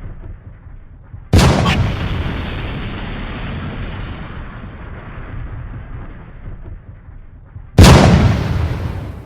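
Two loud booms, about a second in and near the end, each a sudden hit followed by a low rumble that dies away over several seconds, over a steady low rumble.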